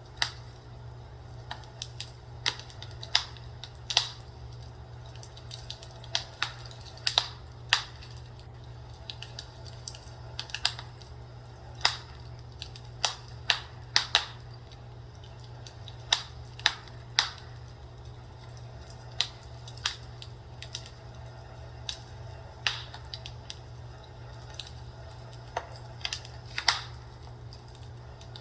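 Fireplace crackling: irregular sharp pops and snaps, roughly one a second, over a steady low hum.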